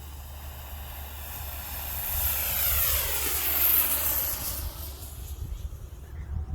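Sugar rocket motor burning with a hissing roar that swells to its loudest about three to four seconds in, then fades as the rocket flies away, its pitch sweeping downward.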